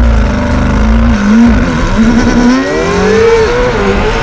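McLaren 720S twin-turbo V8 with a Novitec exhaust, revved high and accelerating hard. Its pitch holds, then climbs and drops sharply about three and a half seconds in at an upshift, before climbing again.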